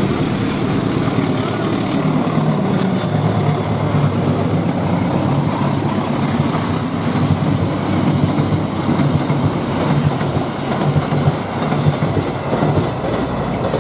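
Passenger train passing close by, its wheels running over the rails in a continuous loud rumble with a regular low beat.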